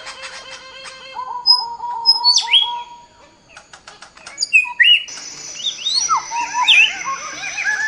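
Birds chirping and calling, several voices overlapping in quick repeated notes and short rising whistles, with a brief lull about three seconds in.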